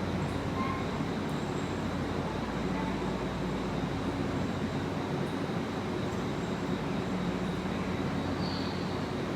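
Tobu 10030-series electric commuter train at a station, a steady low rumble and hum with no change in pitch.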